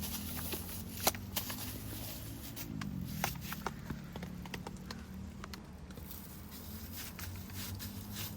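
Wood fire crackling, with irregular sharp snaps and pops, the loudest about a second in. Under it runs a low steady hum that shifts in pitch briefly around three seconds in.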